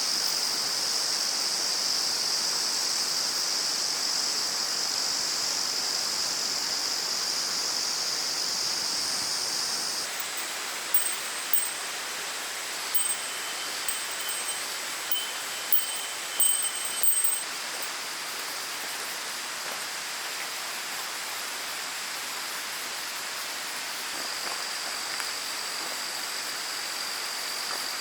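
A steady, shrill insect chorus over the rush of a stream. It cuts off suddenly about ten seconds in, leaving the stream's hiss. Between about eleven and seventeen seconds, a few brief, high chime-like notes sound over the stream.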